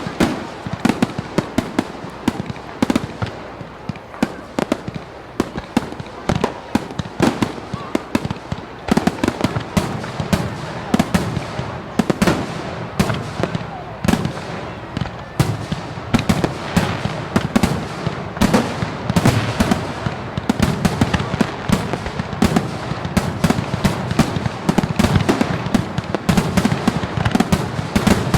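Fireworks display: a rapid, unbroken barrage of bangs and crackles, getting a little louder and denser in the second half.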